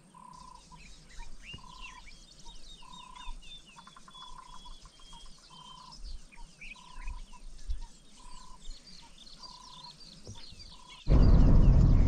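Wild birds calling: one bird repeats a short, even whistled note about once a second over many quick chirps and twitters from others, with a brief rapid trill partway through. About a second before the end, loud vehicle and wind noise cuts in suddenly.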